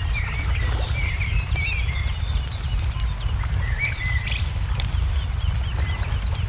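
Wood fire crackling with scattered sharp pops over a steady low rumble, while small songbirds chirp and warble repeatedly.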